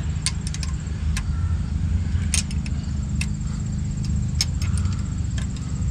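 Light, irregular metallic clicks and taps as the differential cross-pin bolt is threaded back in by hand, over a steady low hum.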